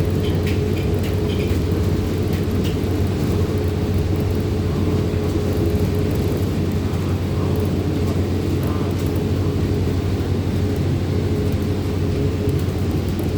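City bus engine and drivetrain running, heard from inside the passenger cabin: a steady low drone with a steady whine above it. A few light rattles in the first three seconds or so.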